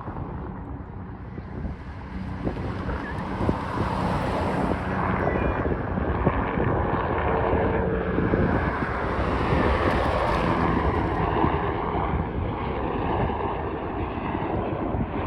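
Bell 407GXi helicopter's single turbine engine and rotor running during takeoff, growing louder about four seconds in, with wind buffeting the microphone.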